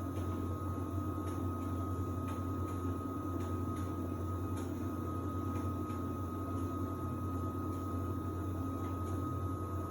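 Samsung WD70T4047CE washer-dryer running through its wash-and-dry programme: a steady low hum with a thin high whine over it, and faint light ticks now and then.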